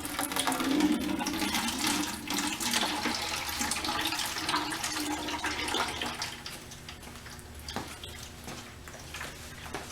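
Coolant (water with a corrosion inhibitor) pouring out of the water pump drain hole of a Ducati 1098, running freely now that the radiator cap is off and the vacuum is broken. The stream weakens about six seconds in.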